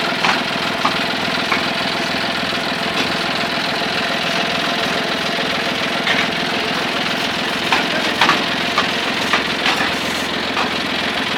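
Tractor diesel engine running steadily, with scattered sharp clicks and knocks throughout.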